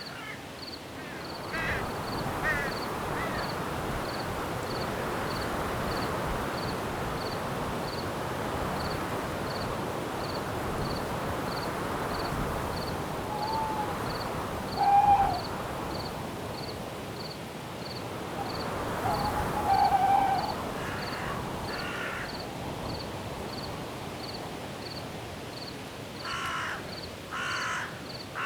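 Night forest ambience: a steady rush of wind, a cricket chirping evenly about twice a second, and a bird giving a few harsh, cawing calls scattered through, the loudest about halfway through and again around two-thirds of the way.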